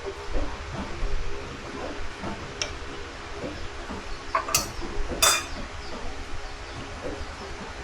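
Light clinking of kitchenware, with two sharper clinks a little past the middle, over a steady faint background hum.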